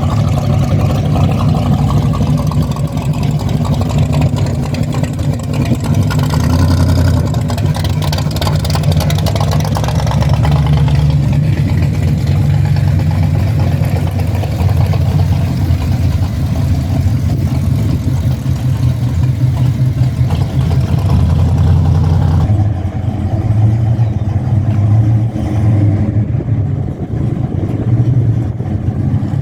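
Car engine running, a steady low rumble. About 22 seconds in, the higher hiss drops away and the rumble continues.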